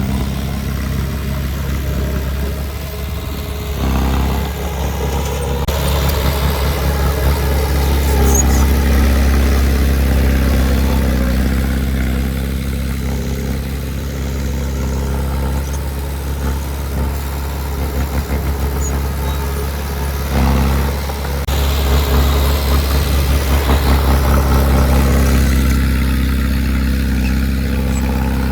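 A heavy earthmoving machine's diesel engine running steadily with a low, even engine note. It works harder and louder several times, around 4 s, 8–12 s and again in the last third.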